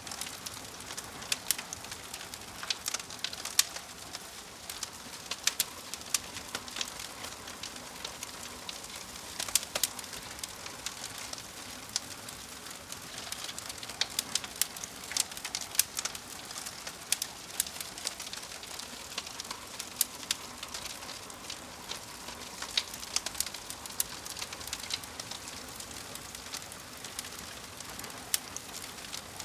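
Wood fire burning in a fireplace: logs crackling with many sharp irregular pops over a steady hiss.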